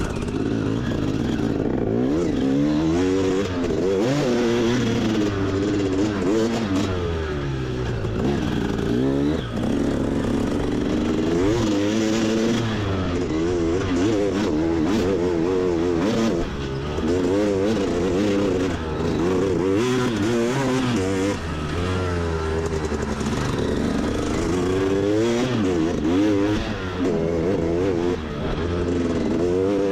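Motorbike engine being ridden hard on a trail, revving up and down over and over with the throttle and gear changes, its pitch rising and falling every second or two.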